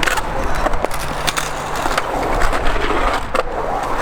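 Skateboard wheels rolling with a steady rumble, broken by several sharp clacks of the board and trucks.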